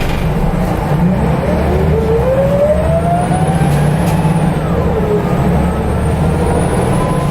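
Scania L94UB bus under way, heard from inside, with its ZF automatic gearbox's whine rising in pitch as it accelerates and then falling away about two-thirds of the way in at a gear change, over a steady engine rumble.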